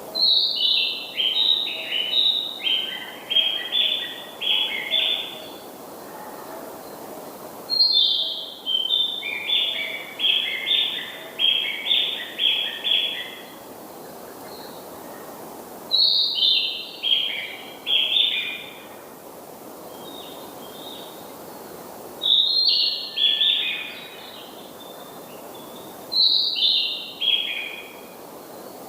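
A songbird singing the same phrase five times, with pauses of a few seconds between: each phrase opens on a high note and runs down through a string of quick notes, lasting from about two to six seconds.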